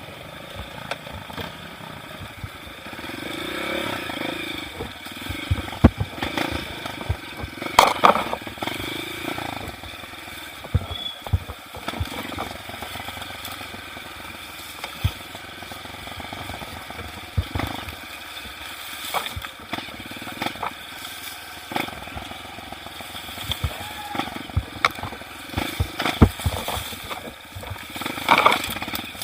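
Off-road motorcycle engine running while being ridden over rough trail ground, with many sharp knocks and clattering of the bike over rocks and bumps.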